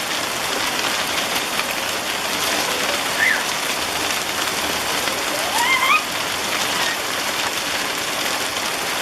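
Heavy hail mixed with rain falling steadily, a dense patter of many small impacts. A child's voice gives a brief rising squeal about three seconds in and again at five to six seconds.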